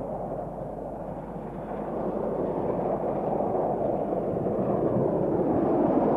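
Steam locomotive running, heard as a steady rushing noise that grows louder toward the end.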